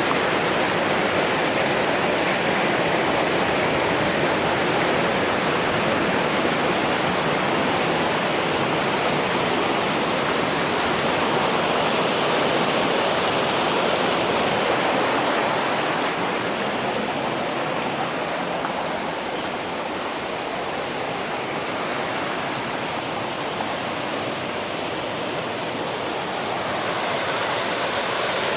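Steady rushing of a mountain waterfall's falling water, a dense even roar with no distinct splashes, easing a little in the middle stretch and swelling again near the end.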